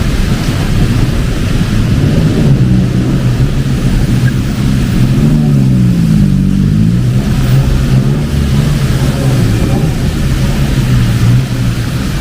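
Engines of street traffic running on a rain-soaked road, a low hum whose pitch rises and falls about halfway through as vehicles speed up and slow down, over a steady hiss of heavy rain.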